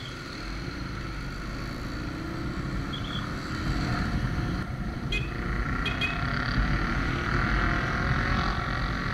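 Suzuki Thunder 125's single-cylinder four-stroke engine running as the motorcycle pulls away through traffic, its pitch rising as it accelerates, over a low rumble of wind and road noise on the on-bike camera.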